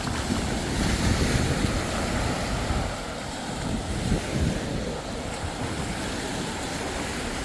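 Surf washing on the beach, with wind buffeting the microphone in irregular low gusts.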